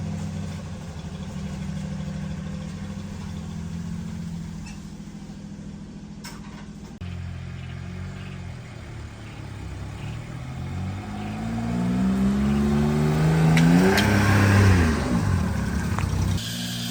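Small Daewoo truck engine idling steadily; then, after a break, it revs up, its pitch rising over a few seconds and falling again.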